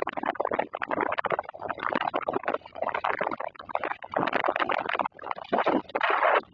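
Summer thunderstorm noise: wind and rain in gusts that surge and drop every second or so, with a crackling rush.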